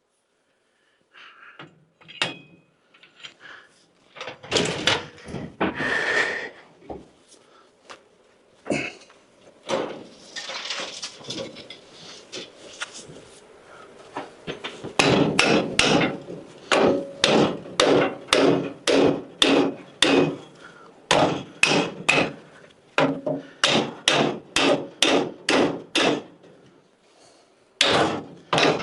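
Repeated hammer blows on a metal part, about two a second and ringing slightly, through the second half; before that, scattered knocks and handling noise.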